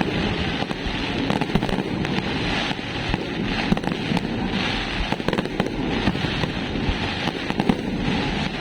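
Fireworks going off in a dense barrage: steady crackling with many sharp pops and bangs mixed in.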